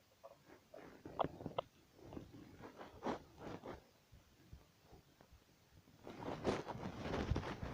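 Scattered rustles and clicks, then a denser run of crunching steps and gear rustle from about six seconds in, as a player moves over the ground.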